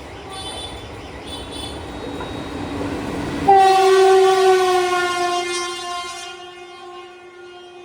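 Kolkata suburban EMU local train approaching with a rising rumble, then sounding a long air horn about three and a half seconds in; the horn is the loudest thing, its pitch sags slightly and it fades gradually. Two short high toots come early on.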